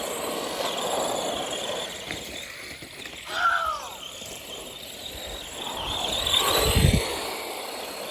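RC cars driving, their motors giving a high whine that rises and falls over a steady noise. A short squeal comes about three and a half seconds in, and a low thump about seven seconds in.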